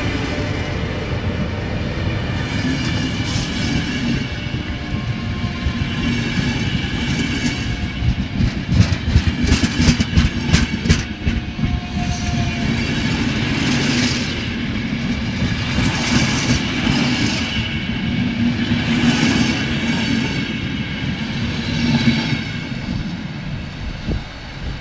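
Intercity passenger coaches rolling past close by with a steady rumble. About eight seconds in there is a run of rapid wheel clicks lasting a few seconds, and the sound drops away near the end as the train draws off.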